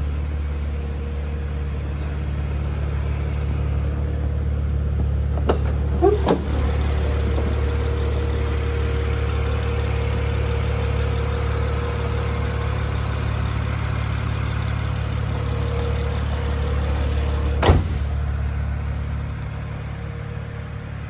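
BMW Z4 sDrive35is's 3.0 L twin-turbo inline-six idling steadily, with a few sharp clicks about six seconds in and again near the end. The low drone eases off shortly before the end.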